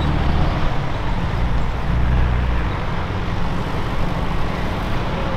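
Motor vehicles running, a steady low rumble with a hiss over it.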